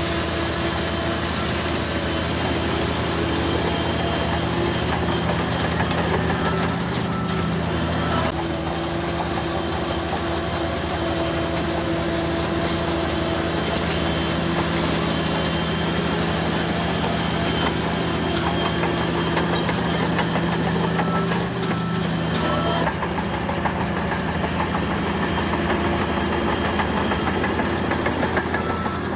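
Heavy construction machinery's diesel engine running steadily, with the engine note shifting about 8 seconds in. Near the end, a backup alarm beeps repeatedly.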